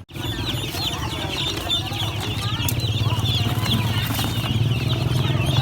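Many young chickens peeping together: a dense chorus of short, wavering high calls over a steady low hum.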